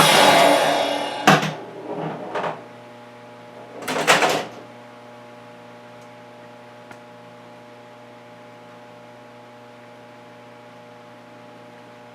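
1988 Bally Truck Stop pinball machine: its electronic game sounds die away in the first second, with a sharp knock a little after and a short louder burst of sound about four seconds in. After that, only a steady low electrical hum is left.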